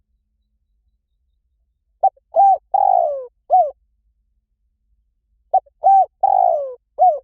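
Spotted dove cooing: two phrases about three and a half seconds apart, each made of two short coos, a longer coo falling in pitch, then a short closing coo.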